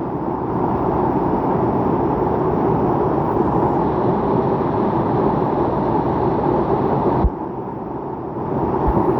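Steady rush of flowing water from a mountain stream. The sound drops suddenly and goes quieter about seven seconds in, then returns to full level just before the end.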